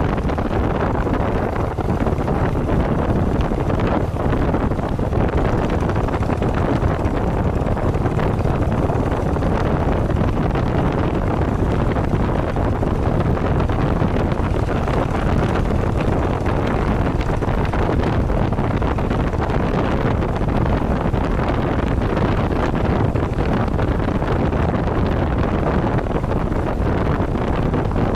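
Steady wind buffeting the microphone, mixed with the low rumble of a vehicle on the move.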